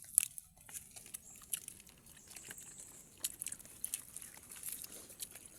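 A person chewing food close to the microphone, with scattered small clicks and smacks, the sharpest just after the start.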